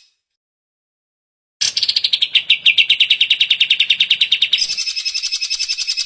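Green leafbird (cucak ijo) song: after a second and a half of silence, a fast ringing trill of about ten notes a second, its pitch dropping a little at the start, then switching to a higher trill near the end.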